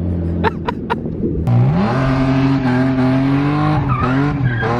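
Drift car's engine revving hard: a few sharp pops in the first second, then the revs climb quickly and are held high with tyre noise, dipping briefly near the end.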